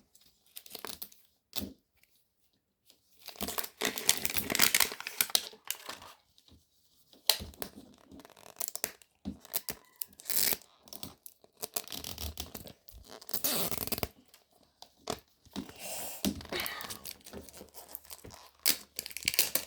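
Small plastic wrappers of miniature toy products being torn open and crinkled by hand, in irregular bursts with short pauses.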